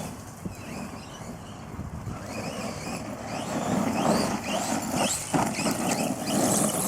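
Brushless-powered RC monster truck driving on dirt: a steady rush of tyre and running noise, with the electric motor whining up in pitch several times from about halfway through as the truck accelerates.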